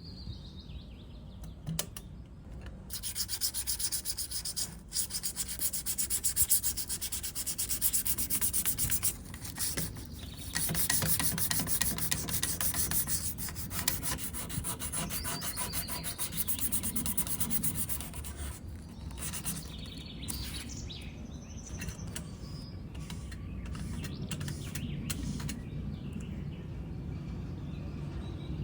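Abrasive sanding, a rough scratchy rubbing against a hard surface, loudest through the first half and quieter after about 18 seconds, with a few short scrapes near the end.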